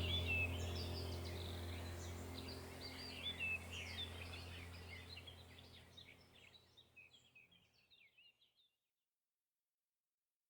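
Small birds chirping and twittering over a low, steady ambient music drone. Both fade out to silence about six seconds in.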